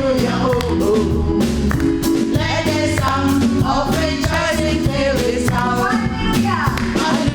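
Live gospel music: singers' voices over a band with a bass line and a steady beat.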